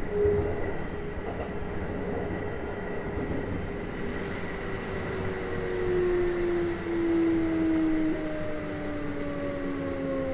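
Kintetsu 1420 series VVVF prototype electric train running, its inverter and motor whine sliding slowly down in pitch in several tones over the wheel and rail rumble as the train brakes for its stop. The sound is heard from inside the car.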